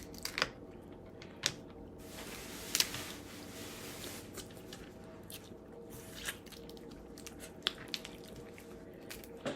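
Close-up eating of shellfish: shells cracking and being picked apart, with wet, squishy chewing. Scattered sharp clicks, and a stretch of rustling about two to four seconds in.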